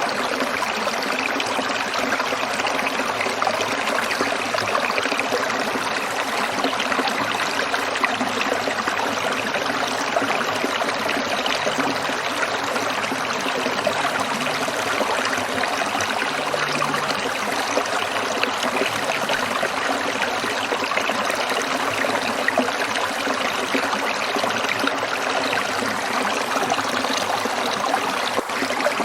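Small stream trickling over rocks: a steady, continuous splashing and bubbling of running water.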